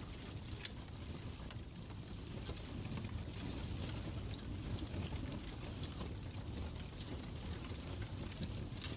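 Fireplace crackling: a steady low rumble of the fire with scattered, irregular sharp pops.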